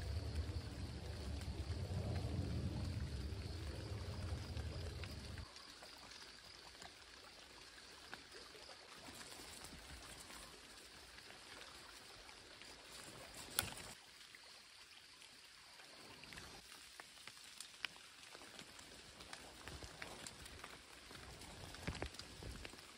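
Wind rumbling on the microphone over light rain for the first five seconds or so, then cutting off sharply. After that it is much quieter: faint rain with small scattered clicks and snaps as yamabudō (crimson glory vine) berry clusters are picked off the vine by hand, with handling bumps near the end.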